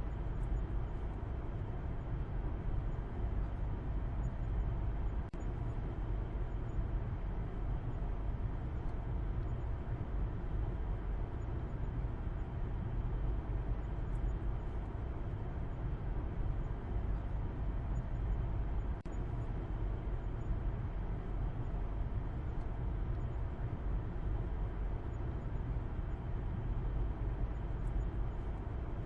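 A car driving at a steady speed: an even, low rumble of road and engine noise that holds unchanged throughout.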